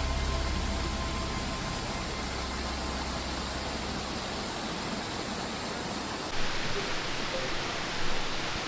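Steady rushing of a waterfall. Background music fades out over the first few seconds.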